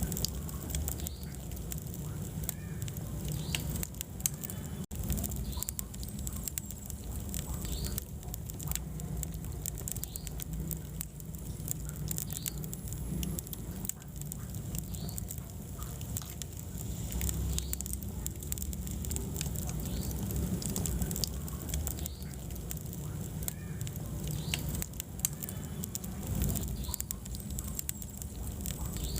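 Wood fire burning in a fireplace: a steady low rumble of flame with frequent small crackles and pops throughout.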